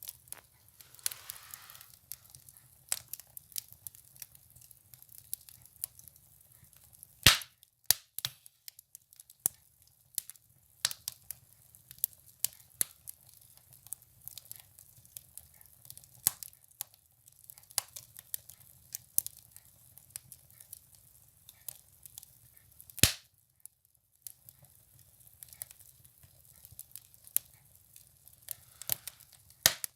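Firewood burning in a wood stove, crackling with irregular sharp snaps and pops; two louder pops come about a quarter of the way in and about three-quarters of the way in.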